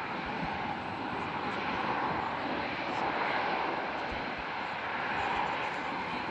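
Jet engines of an Airbus A380 running with a steady rushing noise.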